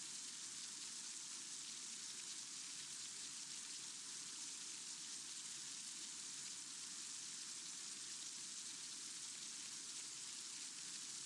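A faint, steady hiss with no distinct events.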